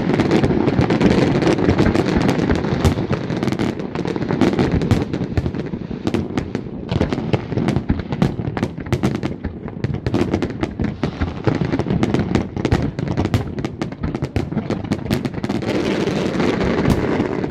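Large fireworks display: a dense, continuous barrage of bangs and crackles, the shells going off too fast to count.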